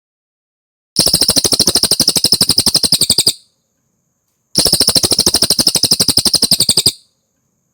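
Cililin song from a masteran training recording: two loud, shrill, rapid pulsed trills of a little over two seconds each, at about a dozen pulses a second, with a short pause between them.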